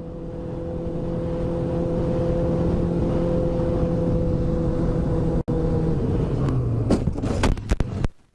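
Motor vehicle engine running at a steady speed, with road and wind noise. Several sharp knocks near the end.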